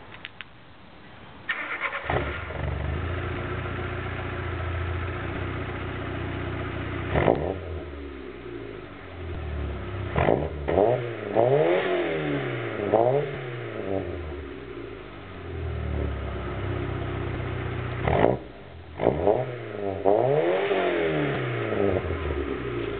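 VW Golf III 1.4 four-cylinder petrol engine, breathing through an open filter intake and a sports catalytic converter, resonator and duplex sports exhaust. It starts up about a second and a half in and settles to a steady idle. It is then blipped up and down in two bursts of quick revs, one around the middle and one near the end.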